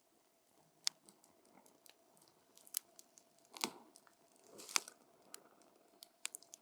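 Campfire wood crackling: irregular sharp pops and snaps over a faint hiss of the flames, with the loudest pops about a second in, near three seconds and near five seconds.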